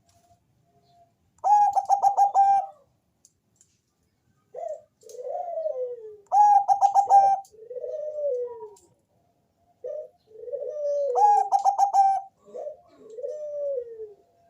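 Zebra dove (perkutut, Bangkok strain) singing its cooing song: a quick run of clipped notes followed by several lower, falling coos. The phrase comes three times, about every five seconds.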